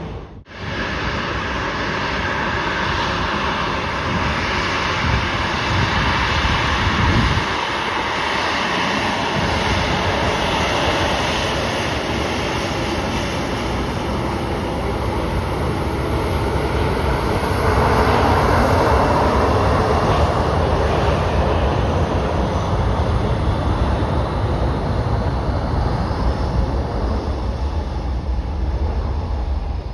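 Jet airliner's engines: a loud, steady rush with a faint high whine, swelling to its loudest about two-thirds of the way through.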